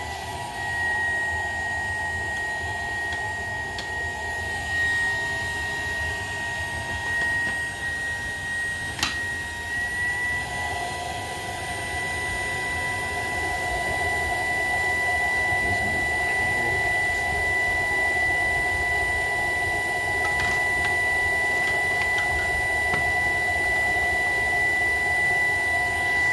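Shark PowerDetect vacuum running with a steady high motor whine. About nine seconds in there is a click, after which the whine steps slightly higher and the motor runs a little louder.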